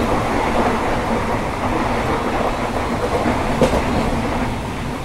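Passenger train coach running along the track, heard from inside the coach: a steady rumble of wheels on rail, with one sharp knock about three and a half seconds in.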